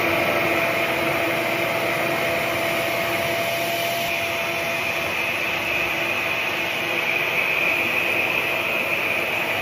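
RevAir reverse-air hair dryer running steadily, its suction drawing a section of hair into the tube: a vacuum-like rush of air with a steady whine, one higher tone in it fading out about halfway through.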